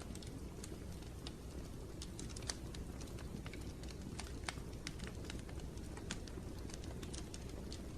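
Wood fire crackling in a fireplace: a steady low rumble of burning with frequent irregular sharp pops and crackles.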